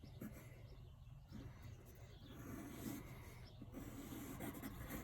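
Drawing tool scratching and sliding on paper in quick, irregular strokes during a rapid sketch, faint, over a steady low hum.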